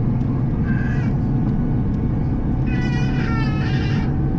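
Steady cabin noise inside an Airbus A350 airliner. Over it, a high-pitched wavering cry sounds briefly just before a second in, then louder and longer from about three seconds in.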